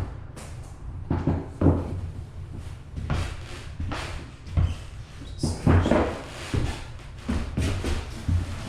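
Irregular knocks and thumps from rigid-core vinyl planks being laid and tapped into place on the floor.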